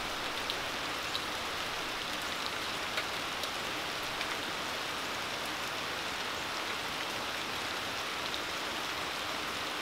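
Steady rain falling, with occasional single drops tapping close by.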